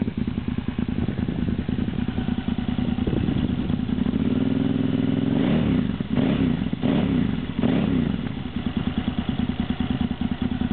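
2004 KTM 950's V-twin engine idling through a Wings aftermarket silencer on a 2-into-1 exhaust, with the larger baffle insert fitted. About four seconds in, the engine is revved and then given a few quick throttle blips before it settles back to idle.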